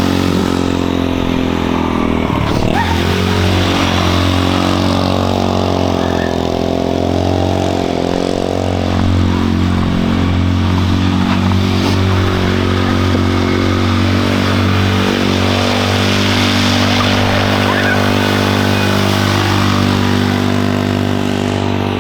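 An engine running steadily at idle: a continuous low hum with even overtones, wavering slightly a couple of times.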